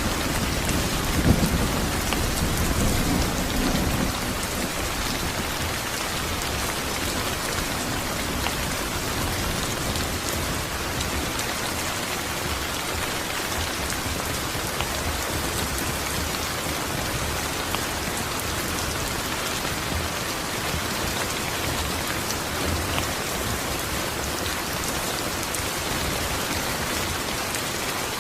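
Steady rain falling as an even hiss. A low rumble of thunder dies away about four seconds in.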